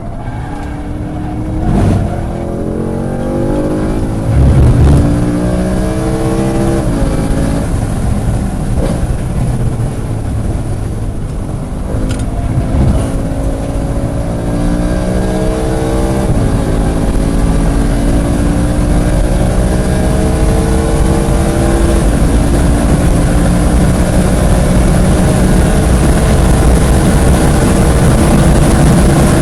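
Sports car's engine accelerating hard through the gears, rising in pitch in each gear, with upshifts about two, seven and sixteen seconds in, then a long steady climb in a higher gear.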